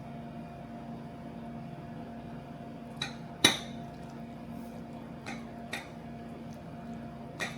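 Dishes and utensils clinking five times, the loudest clink about halfway through, over a steady low hum.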